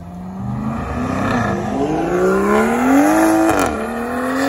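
Car engine revving hard under acceleration, its pitch climbing steadily, dropping sharply at a gear change about three and a half seconds in, then pulling up again.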